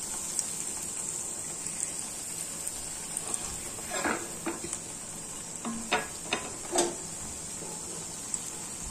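Chicken-cheese mashed-potato snacks shallow-frying in a pan of oil, a steady sizzle, with a few short clinks of a utensil against the pan in the second half.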